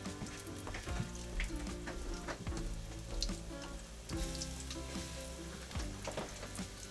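Battered chicken pieces sizzling in a shallow layer of hot oil, with a steady hiss and scattered crackles and pops as they brown.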